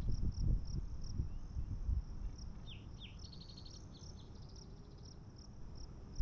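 An insect chirping steadily, about three short high chirps a second, as in an open grassland on a warm afternoon. About three seconds in a bird gives two quick falling notes and a short rapid trill, and a low rumble fades away over the first couple of seconds.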